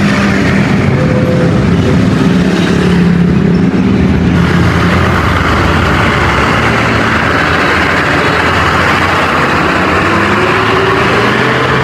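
Truck engine running steadily, its note rising slightly near the end.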